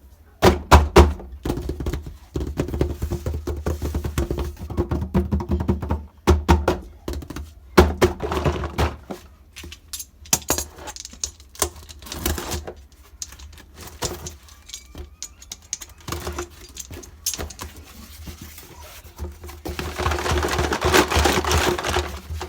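Small plastic toy kitchen pieces and their packaging being handled during unboxing: many light clicks and knocks at an irregular pace, with a denser rustling stretch about twenty seconds in.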